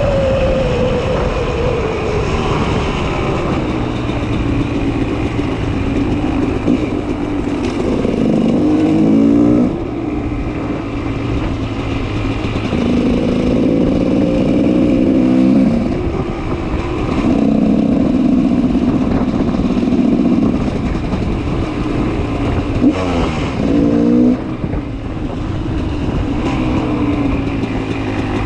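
2004 GasGas 300 EC supermoto's single-cylinder two-stroke engine running through an FMF Powercore 2 exhaust, pitch falling as it slows near the start, then several bursts of throttle with rising pitch.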